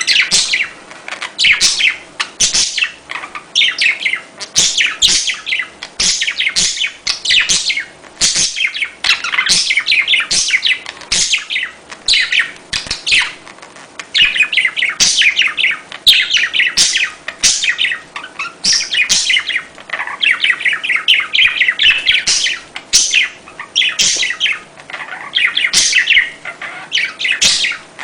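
A flock of budgerigars chattering: fast, high chirps and warbles overlapping almost without pause.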